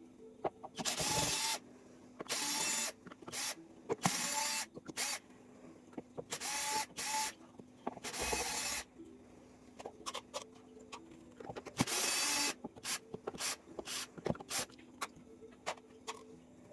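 Small electric screwdriver running in repeated short bursts of about half a second to a second, with clicks and knocks between them as screws come out of a keyboard's casing.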